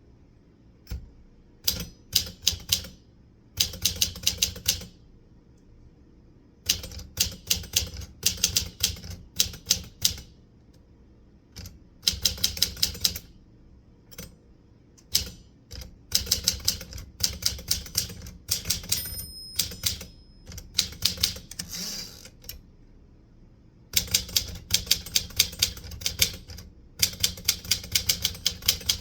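Typewriter keys striking in quick bursts of typing, several keystrokes at a time, with short pauses between bursts. A single brief ring sounds about two-thirds of the way through.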